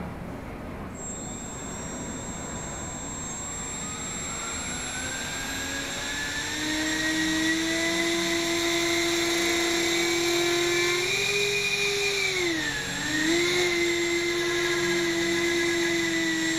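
Electric ducted fans on a foam-board model flying wing spinning up to a high whine under thrust test, rising in pitch over the first several seconds and then held at a steady pitch. The pitch dips briefly about thirteen seconds in and comes back up.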